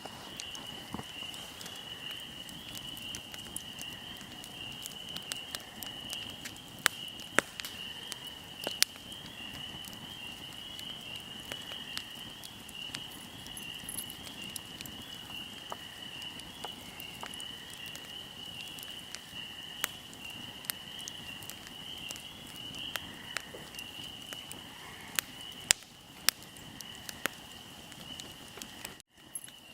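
Fire crackling, with scattered sharp pops and snaps over a steady high chirring of crickets. The sound drops out for a moment near the end.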